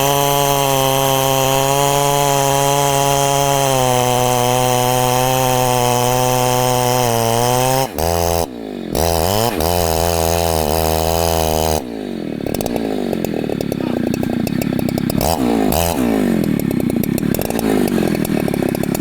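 Large Husqvarna chainsaw running at full throttle, cutting wood. About eight seconds in its pitch drops sharply and wavers, and from about twelve seconds the sound turns rougher and uneven.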